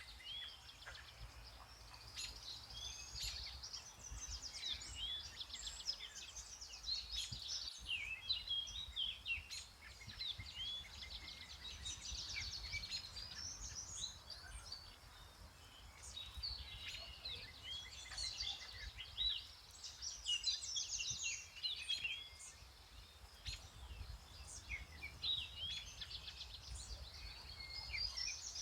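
Several songbirds singing and calling at once in a dense, continuous chorus of short chirps and trills, over a faint low rumble.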